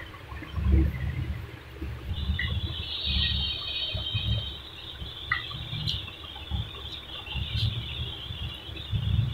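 Close-miked chewing of a mouthful of boiled egg: soft, wet mouth sounds in an uneven rhythm, with another bite taken near the end.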